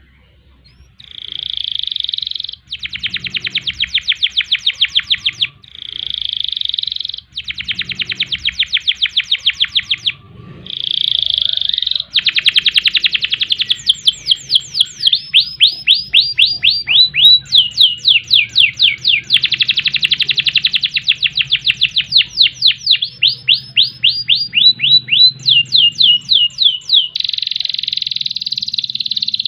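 Domestic canary singing loudly: buzzing rolls and rapid trills in phrases with short pauses between them, then a long unbroken run of sharp, falling notes repeated several times a second.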